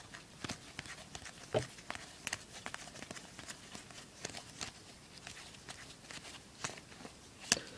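Baseball trading cards being handled and flipped through by hand, with faint irregular clicks and soft slides of card stock against card stock.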